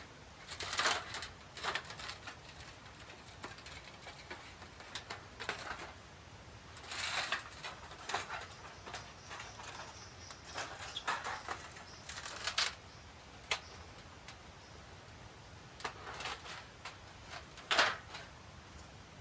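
Rustling and small clicks of gear being handled, in short irregular bursts every second or two.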